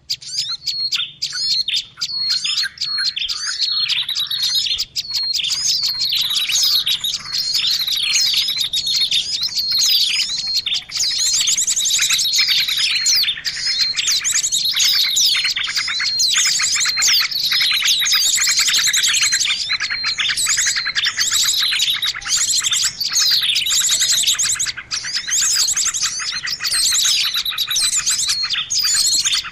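A dense chorus of many small songbirds chirping and trilling over one another: a bird-lure recording made to draw small birds in. The chorus grows thicker about halfway through.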